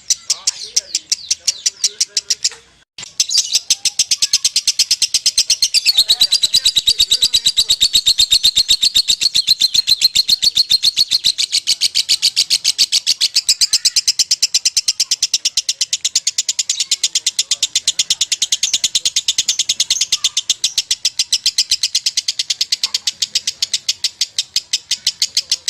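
Lovebird singing its long 'ngekek' chatter: a rapid, even run of sharp high notes that breaks off briefly about three seconds in, then carries on unbroken.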